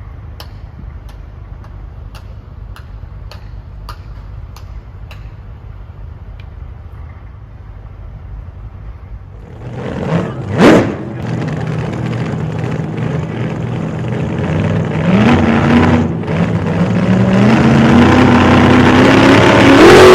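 Turbocharged Hemi V8 of a Dodge Ram 1500: a low rumble with light ticks, then a sharp rising flare about halfway through. The engine then runs and is revved, rising in pitch and getting louder toward the end.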